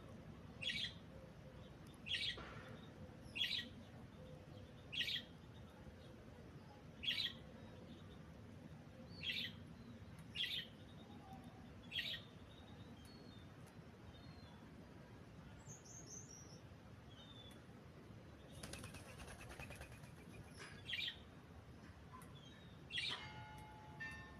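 Doves feeding: about ten short, sharp, high bird sounds spaced one to two seconds apart, and a quick flurry of wing flapping lasting under two seconds about three-quarters of the way through.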